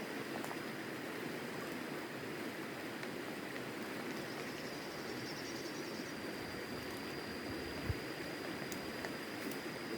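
River water flowing steadily, an even rushing noise, with one short thump just before eight seconds in.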